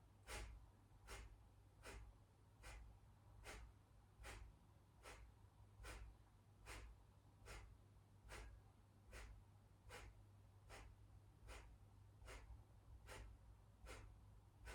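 Kapalabhati (skull-shining breath) pranayama: a string of short, forceful exhales through the nose, each driven by an inward pump of the low belly. They come evenly, a little more than one a second, about nineteen in a row, while the passive inhales between them go unheard. The exhales are faint.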